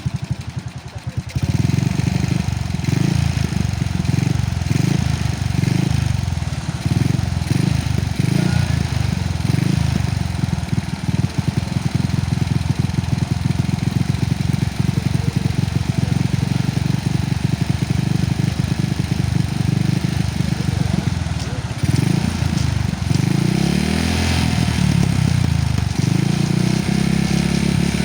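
An engine running close by, loud from about a second in, with its speed rising and falling briefly near the end.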